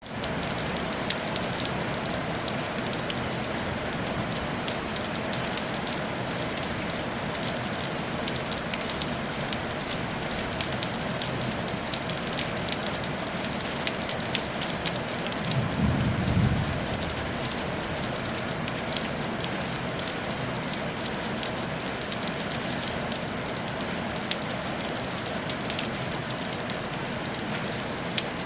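Steady rain falling on a tile roof, an even hiss dotted with the ticks of individual drops. A brief low rumble rises and fades about halfway through.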